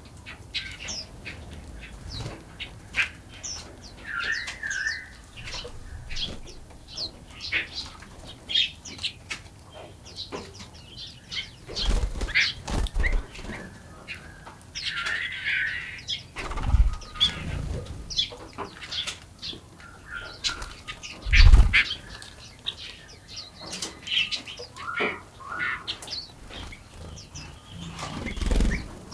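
Wild songbirds chirping and calling in many short notes and trills, with several sudden low thumps, the loudest about two-thirds of the way through.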